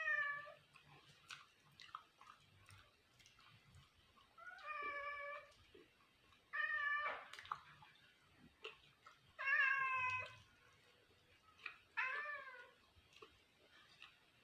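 Domestic cat meowing about five times, each meow short, with a few seconds between them.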